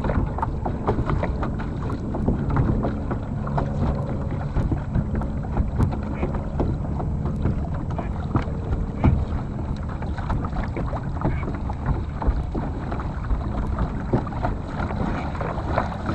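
A Hobie pedal-drive kayak under way on the water: water sloshing and knocking against the hull, with wind on the microphone and a faint low steady hum underneath.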